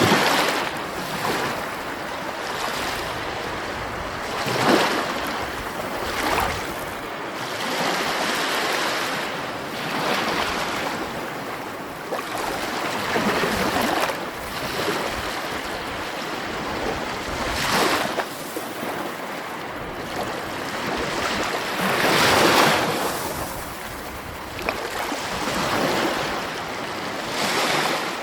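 Sea waves breaking and washing in, a steady rush that swells into a louder surge every few seconds and falls back. The biggest surge comes about three-quarters of the way through.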